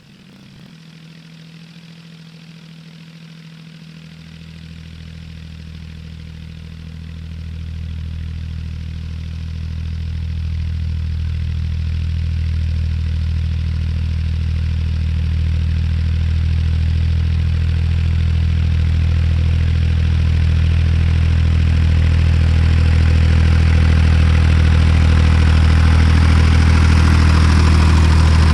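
Tractor engine running at a steady speed, growing steadily louder over about twenty-five seconds as it comes closer.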